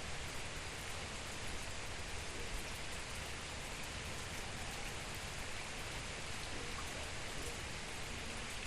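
Steady rain falling, an even hiss of many drops on surfaces with no change in intensity.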